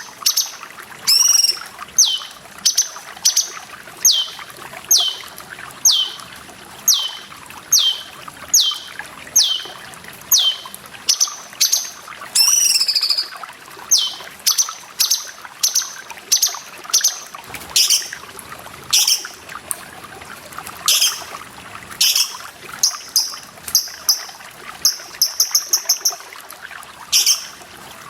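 Cucak cungkok singing: a long run of short, downward-slurred whistled notes, about one and a half a second, then sharper calls and quick trills, over a steady hiss of running water.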